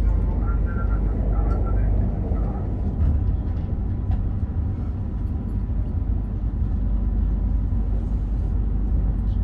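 Meitetsu Panorama Super limited express train running, a steady low rumble of the train in motion heard from inside the car.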